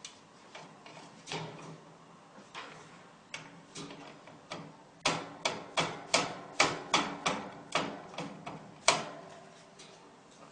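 A series of sharp clicks or taps: a few scattered ones at first, then a quick run of about three a second from about halfway in, ending with the loudest single click near the end.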